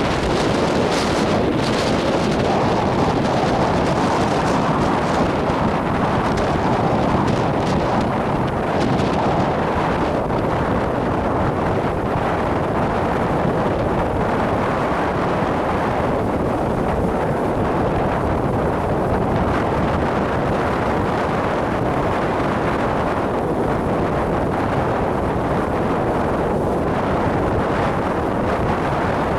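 Strong wind buffeting the handheld camera's microphone in a steady, loud rush, with Lake Erie waves washing ashore underneath.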